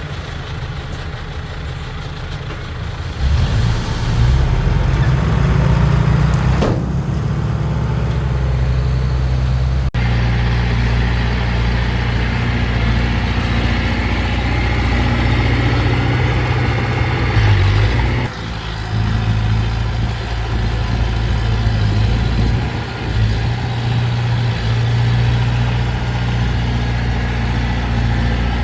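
Diesel engine of heavy earthmoving machinery running with a steady low hum. It grows louder about three seconds in and dips briefly about two-thirds of the way through.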